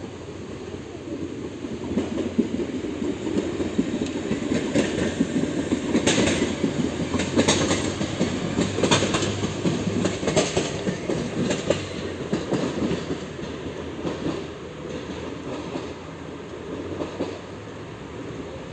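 Regional electric multiple-unit train running into a station, its wheels clattering over rail joints and points in sharp clicks, often paired, over a steady rumble. It is loudest in the middle as the train passes and fades toward the end.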